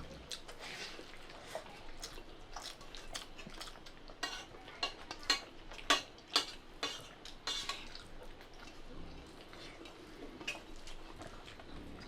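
Dishes and metal utensils clinking and scraping during a meal: a string of short, irregular clicks, some with a brief ring.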